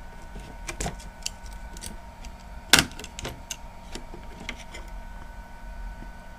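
Scattered small clicks and taps of metal parts and a tool being handled while a laptop's CPU cooler is worked off the motherboard, the loudest click about three seconds in. A faint steady hum runs underneath.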